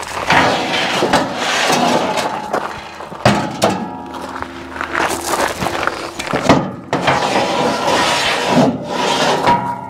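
Repeated clunks, knocks and rattles of an electric golf cart being unloaded and manoeuvred, with a faint steady whine underneath.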